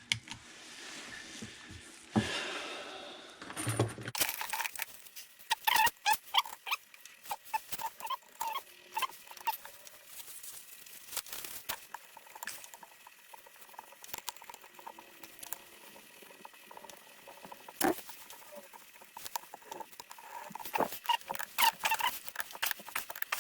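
Metal pump parts and hand tools being handled on a workbench: a long run of light clicks, taps and scrapes, busiest a few seconds in and again near the end.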